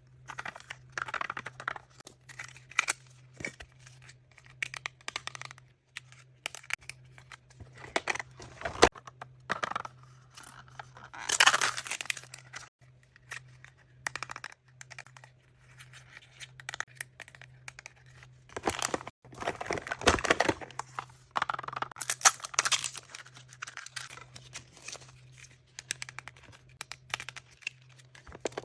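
Wrapping of mystery surprise toys being crinkled and torn open by hand, in irregular rustling bursts with small clicks, loudest in two spells in the middle.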